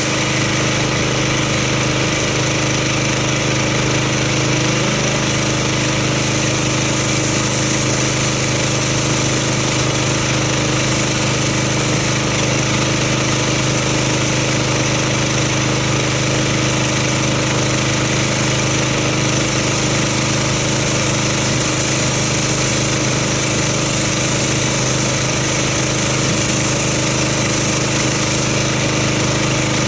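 Gas-engine pressure washer running steadily, its small engine hum under the hiss of the high-pressure spray as a car is rinsed off.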